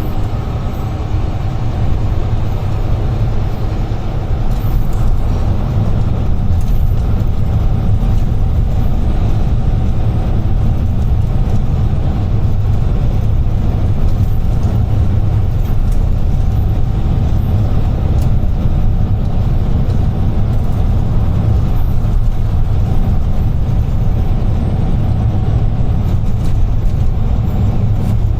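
UD Trucks Quon heavy truck driving at speed, heard from inside the cab: a steady low engine and road drone that gets a little louder about four seconds in.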